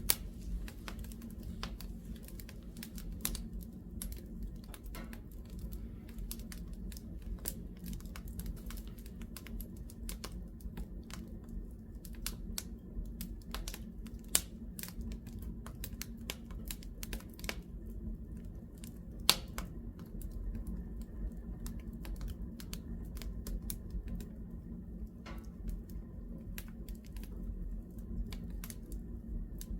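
Wood fire in a fireplace crackling, with irregular sharp pops over a steady low rumble; a few louder pops stand out near the start, about halfway through and about two-thirds through.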